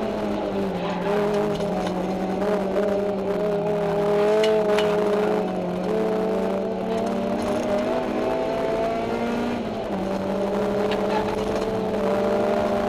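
Honda S2000's four-cylinder engine running hard through a Mugen header and EVS Tuning 70-SSP exhaust, heard from inside the cabin with the windows open. The engine pitch holds fairly steady with small dips and rises and eases briefly about ten seconds in.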